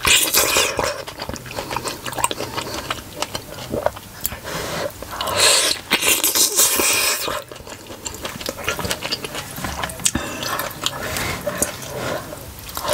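Wet biting and chewing of a juicy steamed pork momo, with slurping and small smacking clicks. The wet bursts are loudest just after the start and again about five to seven seconds in.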